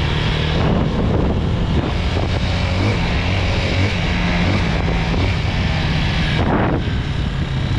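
250 dirt bike engine running steadily while riding, with wind rushing over the microphone.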